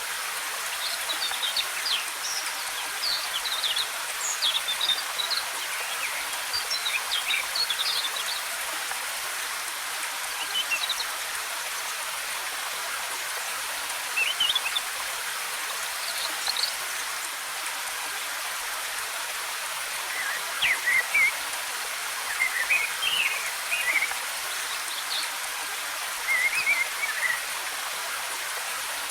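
Steady rush of a waterfall, with forest birds chirping and twittering in short bursts over the top, on and off throughout.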